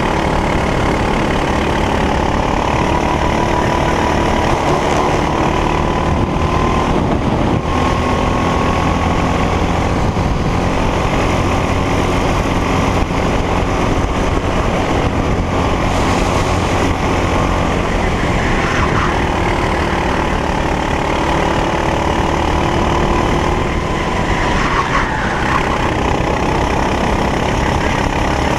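Racing go-kart engine running hard on track, its pitch rising and falling as it accelerates and lifts through the corners, with other karts' engines close by.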